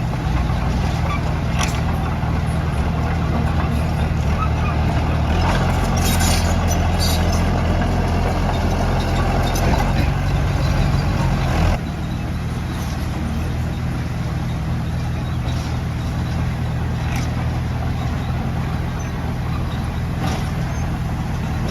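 Komatsu D31P bulldozer's diesel engine running under load. It gets louder about a quarter of the way in, then drops sharply about halfway through and carries on steadily.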